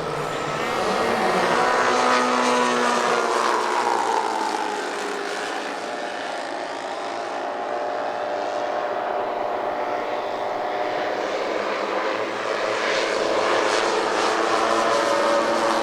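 The four-engined radio-controlled Avro Lancaster models' Zenoah 38 petrol engines running as the aircraft fly past, several engine notes overlapping. One set of notes falls in pitch as it passes about two to four seconds in, and the sound grows louder again near the end.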